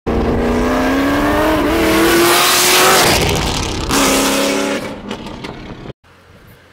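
Supercharged V8 of a modified 2013 Shelby GT500 at full throttle, its note climbing for nearly four seconds, breaking briefly for a gear change and pulling again before fading away. The sound cuts off about six seconds in, leaving a faint low hum.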